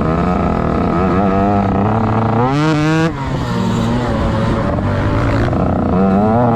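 Motocross bike engine revving: the pitch climbs briefly about a second in, climbs hard and drops sharply about two and a half seconds in, then climbs again near the end as the throttle is opened and shut.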